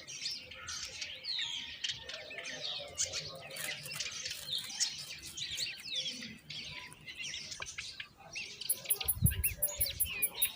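Mynas chirping: many short, overlapping calls and chirps. About nine seconds in there is a low thump and a quick run of faint, very high clicks.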